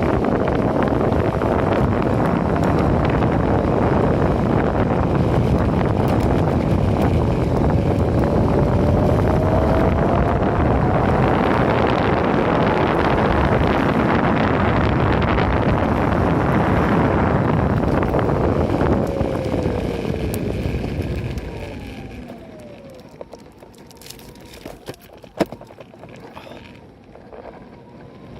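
Wind rushing over a phone microphone while riding a Raptor 2 direct-drive electric skateboard, mixed with wheel noise and a faint whine from its motors that rises and falls with speed. About 21 seconds in, the rush drops away as the board slows, leaving a quieter falling whine and a single click.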